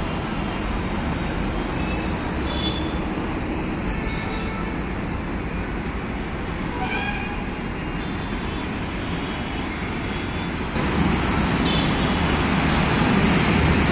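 Steady road traffic noise from a busy highway, vehicles running past, with a few short horn toots. The traffic gets suddenly louder about eleven seconds in.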